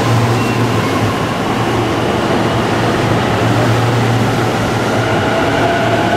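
Electric multiple-unit commuter train pulling out of the station and gathering speed alongside the platform, a steady loud running noise with a hum underneath. Near the end the traction motors' whine rises in pitch as it accelerates.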